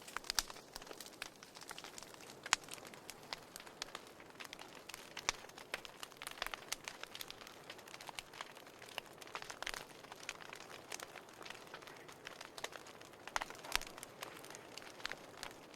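Fireplace fire crackling: irregular sharp pops and snaps over a soft steady hiss, with a few louder pops scattered through.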